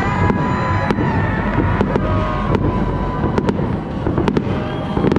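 Fireworks going off in quick succession: many sharp pops and crackles, several a second, over a continuous low rumble.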